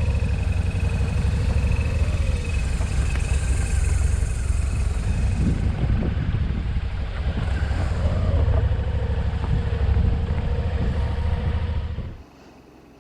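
Motorcycle running steadily on the road with heavy wind rumble on the microphone. It cuts off suddenly about a second before the end.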